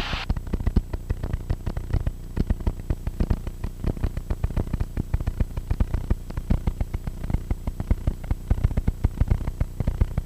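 Cessna 172SP's four-cylinder Lycoming engine running, heard inside the cockpit as a rapid, uneven low thudding.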